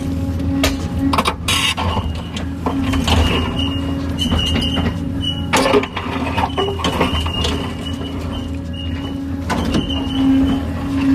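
Kobelco hydraulic excavator's diesel engine running steadily under work, with scattered sharp metallic clanks and knocks and a thin high whine that comes and goes.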